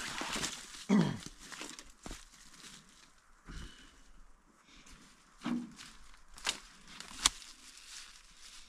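Scattered clicks, knocks and rustling of handling and movement, with a short falling squeak or grunt about a second in and two sharp clicks near the end.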